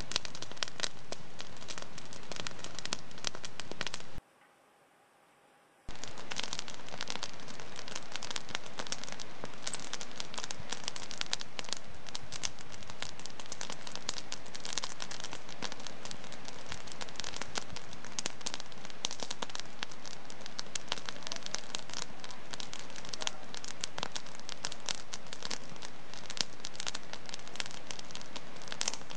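Wood fire in a fireplace crackling steadily with dense, rapid pops and snaps. About four seconds in, the sound cuts out abruptly for about a second and a half, then resumes just as before.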